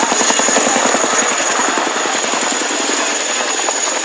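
Boeing Chinook tandem-rotor helicopter in flight: its rotor blades beat in rapid, even slaps over a steady high turbine whine. The blade slap eases into a steadier rush after about two seconds.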